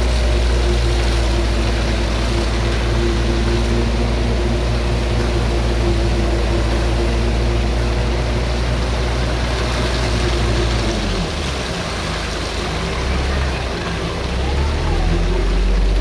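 Heavy construction-vehicle engine running steadily at raised revs, then dropping to a lower, steady idle about eleven seconds in.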